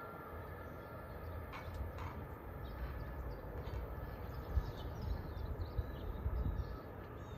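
Low rumble of a train moving away into the distance, with a few faint bird chirps.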